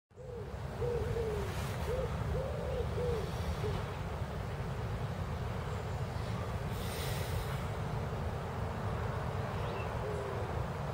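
A bird giving a series of about six short calls, each a soft rising-and-falling tone, in the first four seconds and once more near the end, over a steady low rumble.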